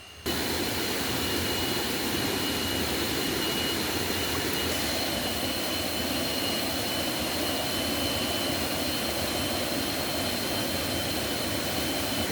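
Steady rushing of a swollen, rain-fed forest stream, starting abruptly just after the beginning, with two thin, steady high-pitched tones running over it.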